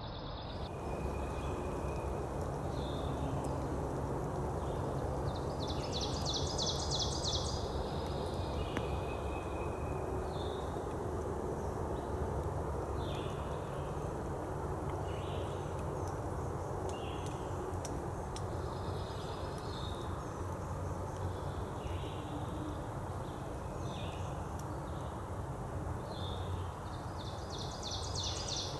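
Songbirds calling and singing over a steady low background rumble, with short high notes scattered throughout and a fast trill twice, about six seconds in and near the end.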